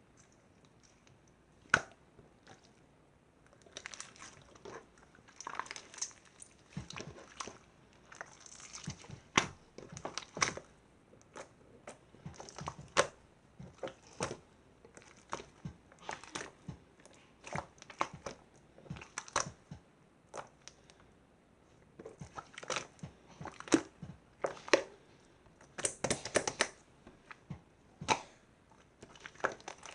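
Slime being squished and pressed by hand, giving irregular clicks and crackling pops. A lone sharp click comes about two seconds in, and there is a short pause about two-thirds of the way through.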